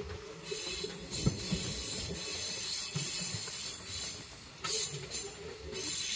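Passenger express train running, heard from the open door of a coach: the wheels rumble and knock on the rails, and a steady rushing hiss comes in about half a second in.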